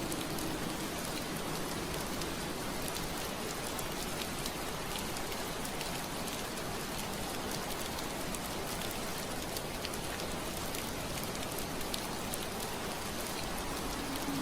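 Steady rain on window glass: an even hiss of rainfall with many small drop ticks. A low steady hum fades out about half a second in and returns near the end.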